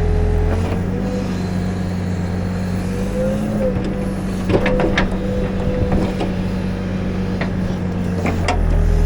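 Backhoe's diesel engine running steadily, with a hydraulic whine that rises briefly about three and a half seconds in. Scattered sharp knocks of the working machine come through, several together about halfway through and again near the end.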